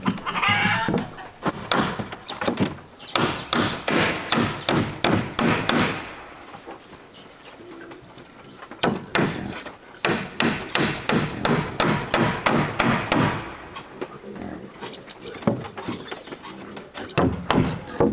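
A hand tool striking wood again and again: three runs of quick, sharp blows, with a pause of a few seconds after each.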